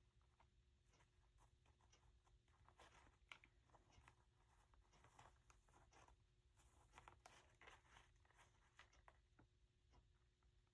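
Near silence with faint, scattered paper rustles and light taps: paper and lace being handled and shifted on a journal page.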